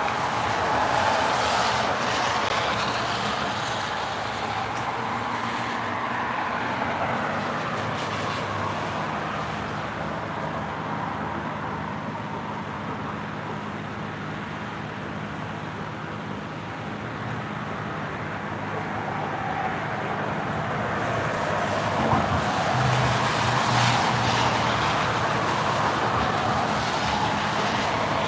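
Road traffic noise: a broad tyre-and-road hiss that swells and fades as vehicles pass, over a steady low engine hum.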